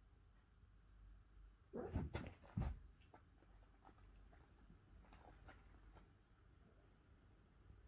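A kitten scrabbling about at play: a short burst of knocks and rustling about two seconds in, then light scattered taps and ticks.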